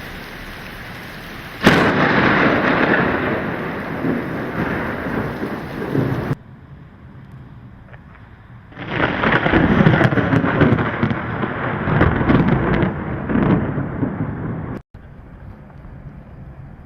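Thunderstorm: a sharp thunderclap about two seconds in rolls into rumbling, then a second long roll of thunder comes about halfway through, with quieter rain hiss between. Each stretch ends in a sudden cut.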